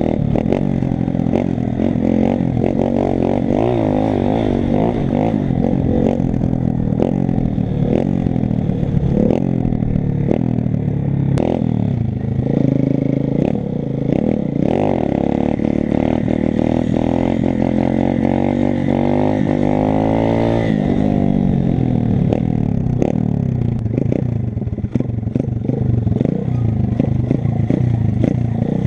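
125 cc pit bike's four-stroke single-cylinder engine revving up and down while being ridden, with rattling from the bike. A long climb in revs about two-thirds of the way through peaks and then drops off sharply.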